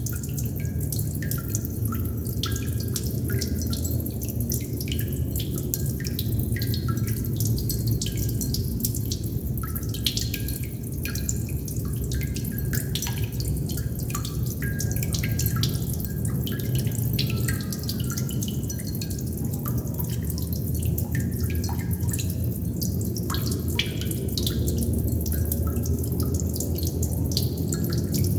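Water droplets dripping at an uneven pace, several a second, each a short plink, over a steady low rumble of water.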